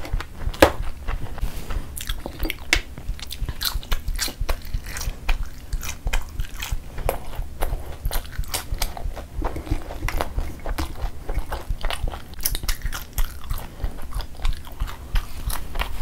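Jalebi being bitten and chewed close to the microphone, with many short sharp crunches and clicks throughout.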